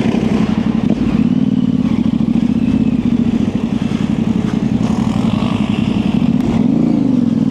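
Yamaha Ténéré 700's parallel-twin engine pulling at steady revs on a dirt trail, with a brief rise and fall in revs near the end.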